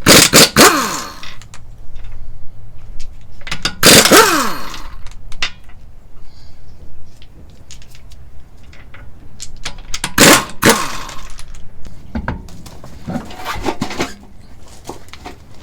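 Power tool, most likely an impact wrench, run in three bursts of about a second on a tight fastener, the pitch falling away as it winds down after each burst. Lighter clicks and scrapes from tools and parts fall in between.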